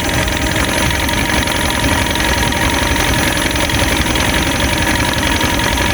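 Boat motor running steadily at idle, a constant even drone with no changes.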